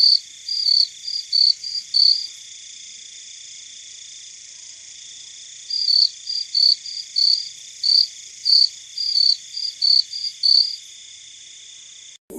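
Insect chirping: short, high chirps about three a second in two runs with a pause between, over a steady high buzzing chorus. It all cuts off just before the end.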